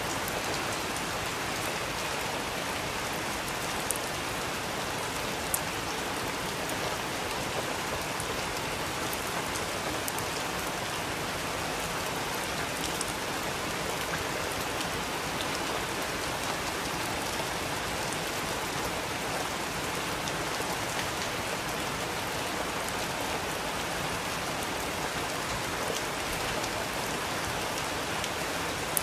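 Steady rain falling, an even hiss with occasional sharper drop hits, twice standing out clearly near the start.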